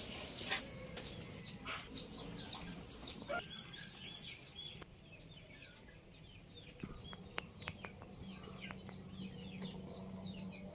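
Birds chirping: a dense, faint run of short, high chirps, each falling in pitch, with a low hum coming in about eight seconds in.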